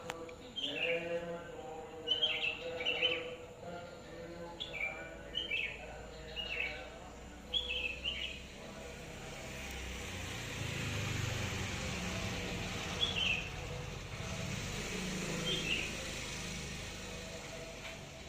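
A bird calling with short, falling chirps repeated about once a second, sparser in the second half, over a faint steady hum. About halfway through a low rumble swells and fades.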